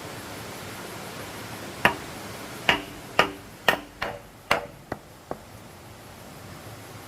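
About eight sharp knocks on wood in a little over three seconds, some leaving a short ringing tone, the last few fainter, over a steady hiss.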